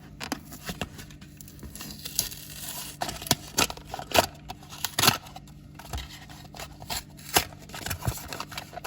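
Hot Wheels blister-card packaging being opened by hand: card and plastic tearing and crinkling, with a run of irregular sharp snaps and clicks, the loudest about four and five seconds in.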